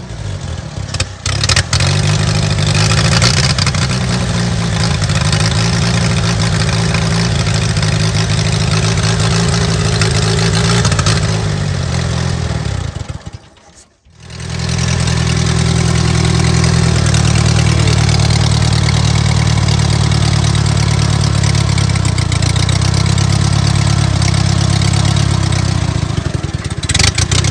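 1980 Bobcat 732 skid steer's gasoline engine running loud, its exhaust coming straight out of the manifold into a cracked pipe with no proper muffler. The sound drops away for about a second halfway through, then the engine runs steadily again.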